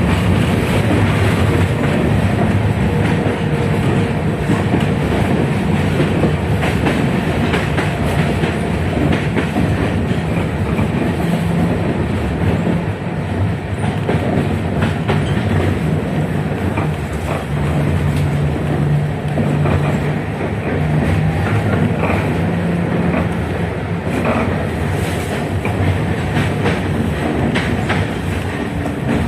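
71-619KT tram car in motion, heard from inside the car: steady wheel-on-rail running noise with scattered clicks and knocks over rail joints, and a low hum from the KR-252 traction motors that comes and goes.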